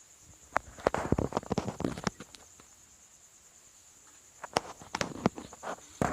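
Footsteps crunching over rough ground at night in two bouts of about a second and a half each, with a pause between. A steady high insect trill runs underneath.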